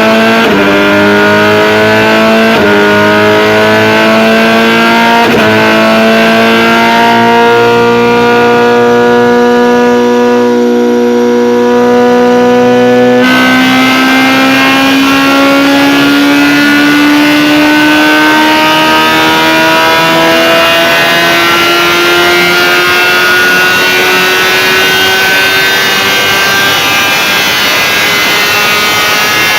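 BMW S1000 superbike's inline-four engine and exhaust at high revs, accelerating hard through the gears. The pitch climbs and drops sharply at three quick upshifts in the first few seconds, then rises slowly through long pulls in the higher gears. There is an abrupt change in the sound about 13 seconds in.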